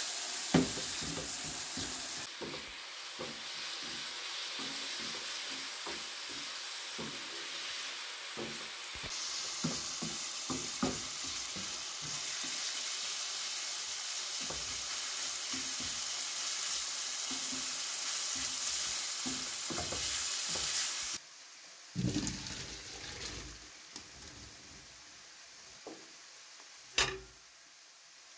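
Diced chicken breast and onion sizzling as they fry in oil in a frying pan, with a wooden spatula stirring and scraping and tapping against the pan many times. About three-quarters of the way through, the sizzling cuts off suddenly. After that come a few soft knocks and one sharp knock near the end.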